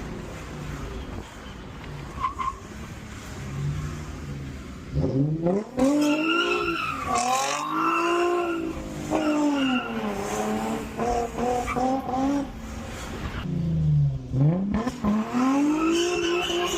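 Drift car's engine revving hard in rising and falling sweeps, with tyres squealing as the car drifts. It is quieter at first, picks up about five seconds in, eases briefly around thirteen seconds and climbs again near the end.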